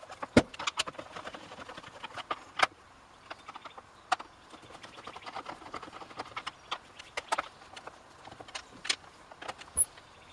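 Irregular clicks, taps and knocks of hand tools and parts being handled while a McCulloch MAC 3516 chainsaw is taken apart, with a couple of sharper knocks near the start.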